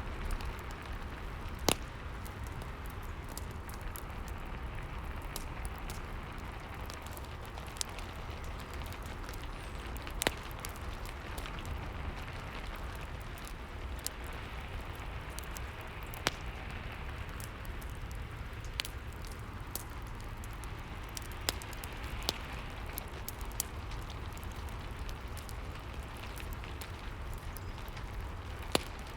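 Rain and fireplace ambience: a steady hiss of rain with a low rumble, broken every few seconds by a sharp, single crackle or pop from the fire.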